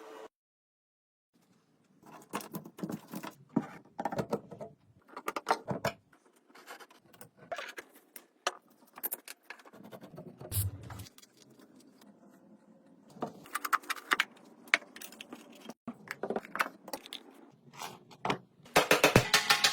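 Small metal parts and hand tools clinking, rattling and scraping in short, irregular bursts, after about a second of silence at the start; the loudest clatter comes near the end.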